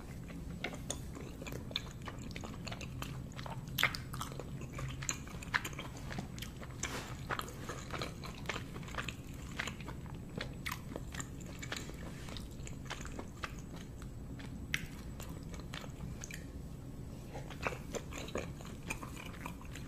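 A person chewing steamed dumplings close to the microphone: many short wet mouth clicks and smacks, over a faint steady low hum.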